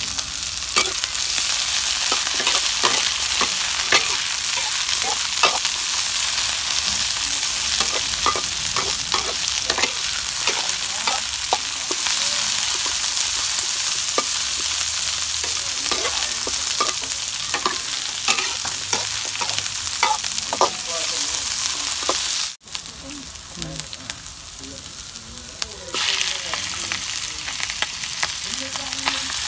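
Chillies, garlic and sliced green stalks sizzling in hot oil in a steel wok, with a metal spatula scraping and clicking against the pan as they are stir-fried. The sizzle cuts out briefly about two-thirds of the way through, and the clicks are fewer after that.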